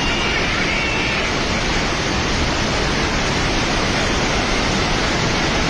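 Swollen river in flash flood: a loud, steady rush of churning floodwater.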